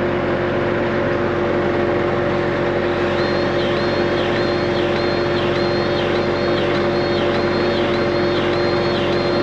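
Battery-powered grease gun pumping grease into a skid steer's grease fitting, over a steady machine hum. A high, pulsing whine starts about three seconds in and repeats about one and a half times a second.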